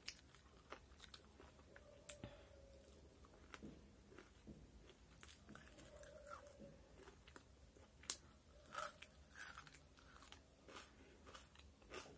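Faint chewing and biting of shallow-fried chicken pakoda, with scattered small crunches and clicks; one sharper crunch about eight seconds in.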